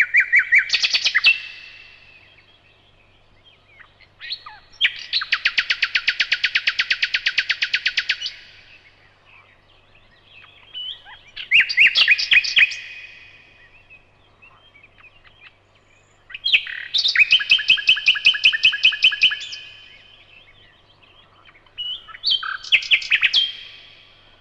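Nightingale singing: five separate phrases with pauses of a few seconds between them, two of them long runs of rapidly repeated notes.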